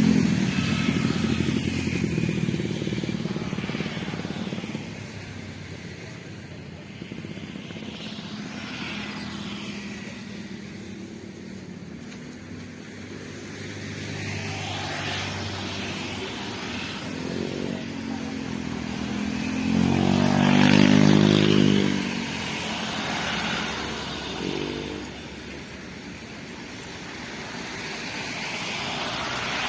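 Road traffic passing close by, motorcycles and cars: one vehicle fading away at the start and a louder one passing about twenty seconds in, over a steady hum of more distant traffic.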